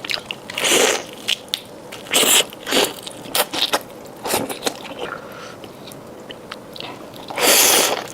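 Fried chicken being bitten and chewed close to the microphone: crisp crunches and crackles, with a longer, louder crunch near the end.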